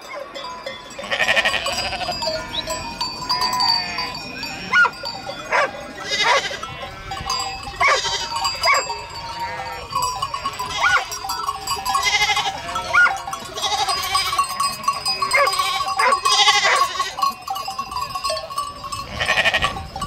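A large flock of sheep bleating, many calls overlapping, with a loud bleat every couple of seconds over a steady metallic ringing of livestock bells.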